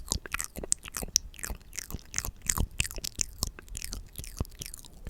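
ASMR mouth sounds close to the microphone: quick wet clicks and smacks of lips and tongue, following one another irregularly.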